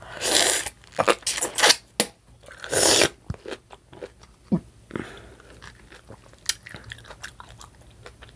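Close-miked eating: biting and chewing, with several loud wet bursts in the first three seconds, then softer mouth smacks and clicks.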